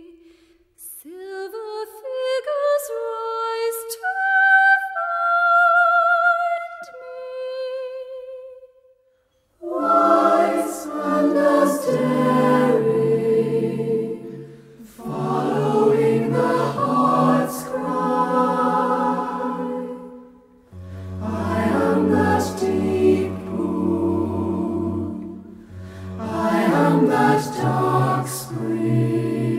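Vocal music: a high solo voice sings a wavering melody with vibrato, stops briefly about nine seconds in, then a choir comes in singing sustained chords in long phrases.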